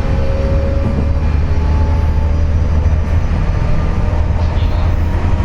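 Onboard running noise of a JR West 201 series armature-chopper electric train at speed: a loud, steady rumble of wheels on rails with a thin whine over it that fades out about a second or two in. This car is known for a jet-like whine caused by electrical pitting (electrolytic corrosion) of its bearings.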